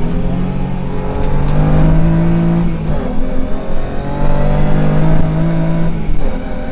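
Rally car engine heard from inside the cabin, pulling hard at high revs, with the revs dropping briefly about three seconds in and again near the end.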